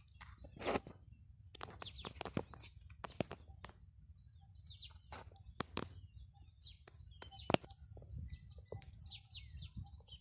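Small birds chirping, with many sharp clicks and snaps mixed in, the loudest about seven and a half seconds in.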